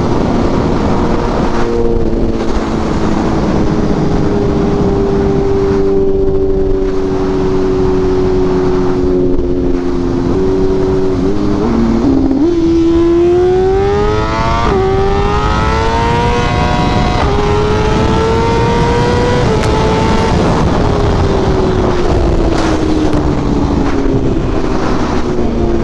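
Sport motorcycle engine under way, with wind rushing over the microphone. The engine note sinks slowly as the bike eases off, then about halfway through it accelerates, the pitch climbing in steps through several upshifts, before it backs off and the note falls again near the end.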